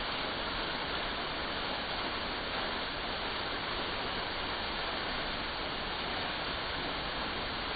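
Artificial waterfall pouring into a pond: a steady, even rush of falling water.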